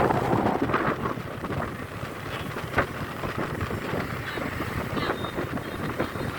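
Strong sea wind buffeting the microphone: a low, uneven rumble with irregular gusts.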